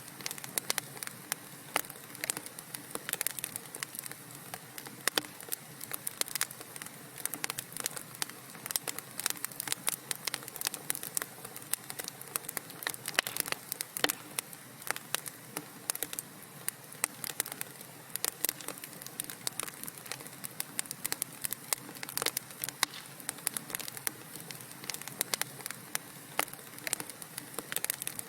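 Wood fire crackling in a fireplace: dense, irregular pops and snaps over a soft steady hiss.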